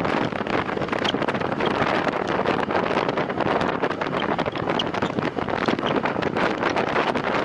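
Wind rushing over the microphone of a time-trial bicycle ridden at race speed, a steady unbroken roar with faint scattered ticks.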